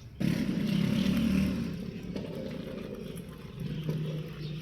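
A motor running with a steady low hum that starts abruptly just after the beginning.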